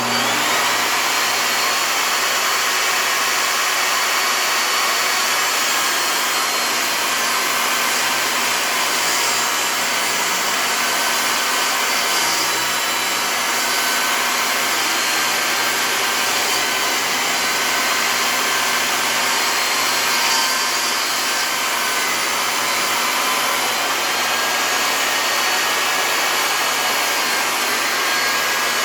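A woodworking power tool running continuously, a loud, steady whir that changes little throughout.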